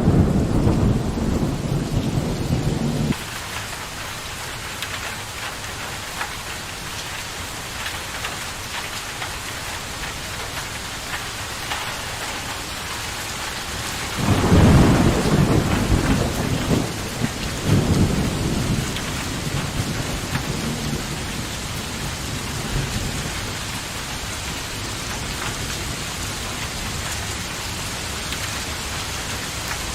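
Steady heavy rain with rolls of thunder: a low rumble that cuts off abruptly about three seconds in, then a louder roll about halfway through followed by a shorter one a few seconds later.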